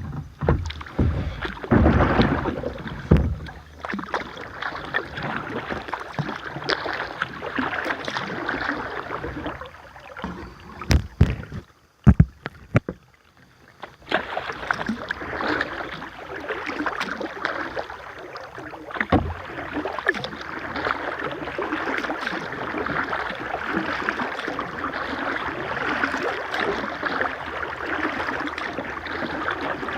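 Sounds of kayaking on a river: a steady wash of moving and splashing water with several sharp knocks early on and again about eleven seconds in. The sound drops away almost completely for a couple of seconds before the water wash returns and holds steady.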